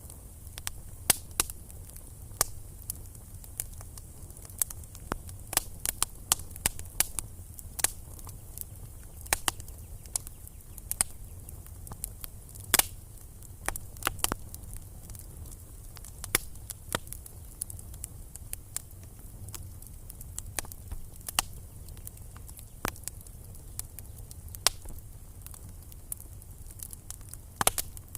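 Wood fire crackling in a fireplace: irregular sharp pops and snaps, a few of them loud, over a low steady rumble.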